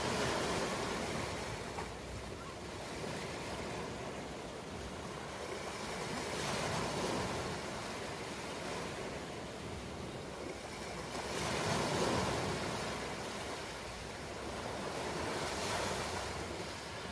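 Ocean surf: waves breaking in slow surges that swell and fade every few seconds, the biggest about twelve seconds in.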